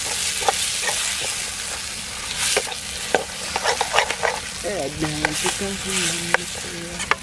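Food frying in a kadai, sizzling steadily, while a spoon stirs it, with repeated scrapes and taps against the pan. A short pitched vocal sound comes in the last few seconds.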